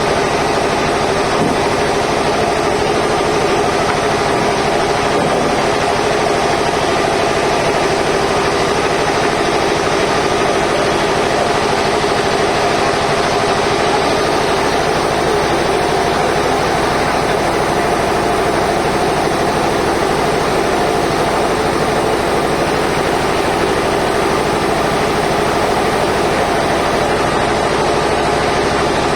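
Sawmill machinery running steadily: a continuous, even engine-like drone with several steady tones, unchanging throughout.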